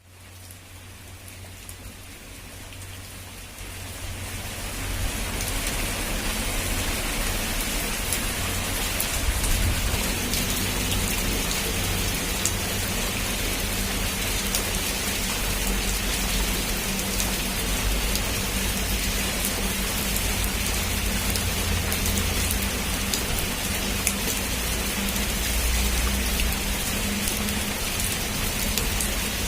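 Heavy rain falling on a roof: a dense, steady hiss with scattered drop ticks and a low rumble underneath, fading in over the first five seconds.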